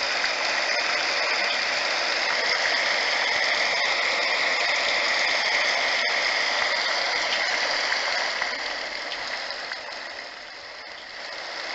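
Recorded rain playing from a HoMedics Sound Spa portable sound machine's small speaker: a steady hiss. It dips in volume about nine seconds in and rises again near the end.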